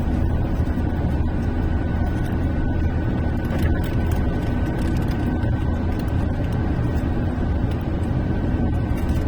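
Steady car road noise from inside the cabin: a constant low rumble of engine and tyres at driving speed, with a faint steady high whine over it.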